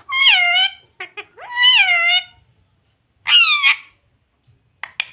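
Parrot vocalizing: three drawn-out, high-pitched calls that bend in pitch, with a few short chirps between the first two.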